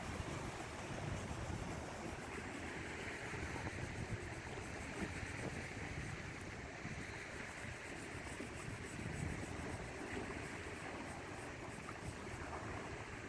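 Small waves washing and splashing, with wind rumbling on the microphone.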